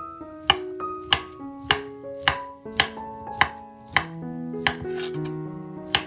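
A kitchen knife chopping on a cutting board in steady strokes, about one every 0.6 s, over background music.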